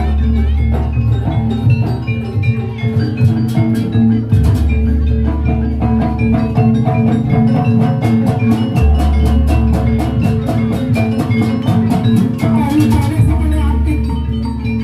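Live jaranan gamelan music: mallet-struck metal keyed instruments play fast repeated notes in a steady rhythm over drums, with deep low notes held for several seconds at a time.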